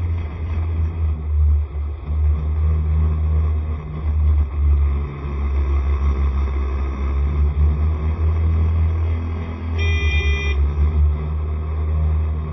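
SCR110 scooter riding along with engine and heavy low wind rumble on the microphone. About ten seconds in, a vehicle horn gives one short beep.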